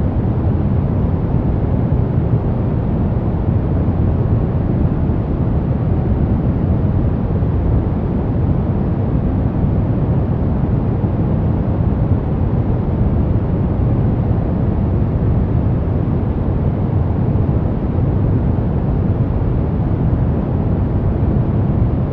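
Steady, unbroken noise from a relaxation noise track sold as white noise. It is deep, with most of its weight in the bass, little treble, and no change in level.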